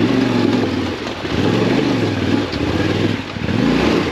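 Yamaha Ténéré 700's parallel-twin engine running under way, its revs rising and falling, with a brief drop in throttle a little after three seconds in.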